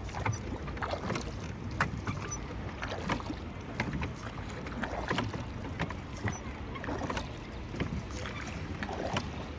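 Water splashing and lapping around a small boat on a lake, in many short, irregular splashes over a low wind rumble on the microphone.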